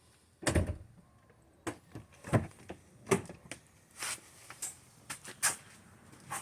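Soft-close car door of a Bentley Continental Flying Spur being worked: a low thunk about half a second in, followed by a series of lighter clicks and knocks.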